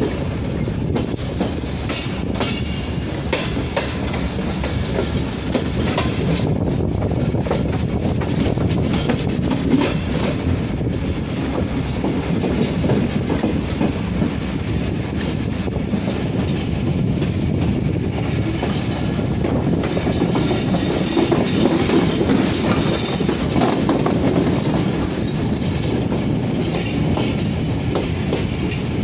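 Train running along the track: a steady rumble of wheels on rails with a clickety-clack over the rail joints and a little wheel squeal.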